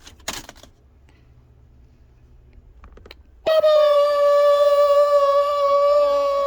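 A person's voice holding one long, steady sung or hummed note, starting about halfway through after near silence. There is a brief scratchy noise just after the start.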